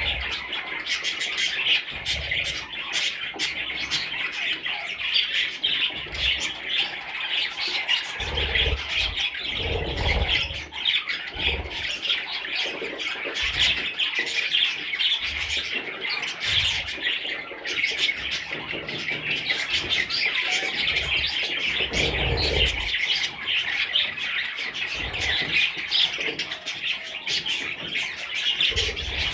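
A group of budgerigars chirping and chattering without a break, many short rapid calls overlapping, with a few dull low thumps about a third of the way in and again past the middle.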